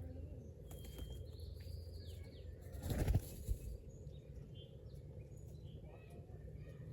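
Small birds chirping outdoors, with a few short falling calls, over a steady low rumble. A brief loud burst of noise comes about three seconds in.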